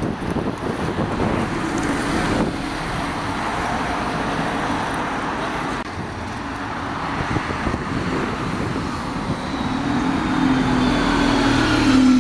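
Road traffic noise, with a vehicle's engine hum growing louder near the end before the sound cuts off suddenly.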